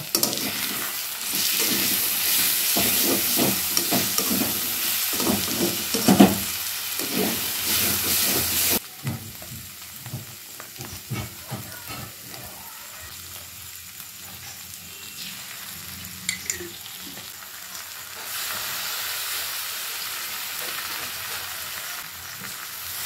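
Diced potatoes and sauce sizzling in hot oil in a metal kadai while a metal spatula stirs and scrapes them against the pan. The sizzle is loud for the first several seconds, with repeated scraping strokes. It drops off suddenly about nine seconds in and picks up again softly near the end.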